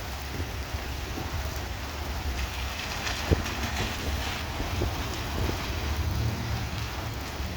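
Heavy rain falling steadily, with individual drops ticking on a nearby surface and one sharper tap a little before halfway. A steady low rumble runs underneath.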